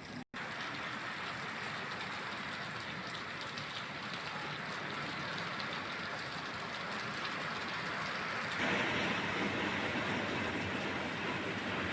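Heavy rain pouring steadily, an even hiss that cuts out for a moment just after the start and grows louder about nine seconds in.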